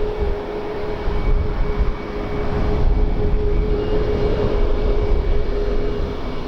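Aircraft engines running with a steady hum, heard over the low rumble of wind buffeting the microphone.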